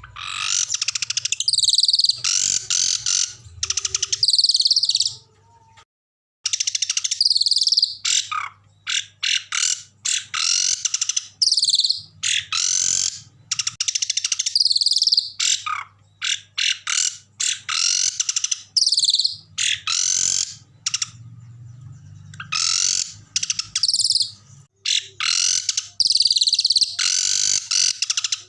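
Small songbirds calling loudly in harsh, rapid chattering bursts and fast trills, one phrase after another, with a brief break about six seconds in.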